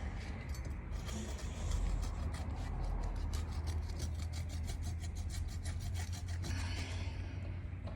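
A blade sawing through a piece of rubber car tyre, in rapid back-and-forth rasping strokes that come fastest through the middle.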